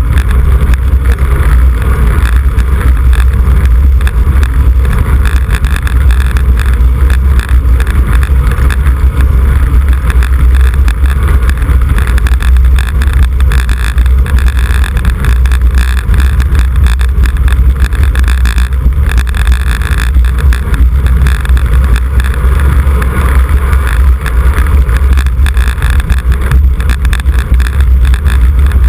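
Wind buffeting a camera microphone carried on a moving road bicycle: a loud, steady low rumble with a rushing hiss over it.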